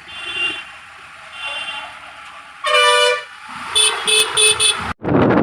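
Vehicle horns honking in road traffic: two faint toots, then one loud blast of about half a second, then four quick short beeps. Near the end the sound cuts off abruptly and wind rush on the microphone takes over.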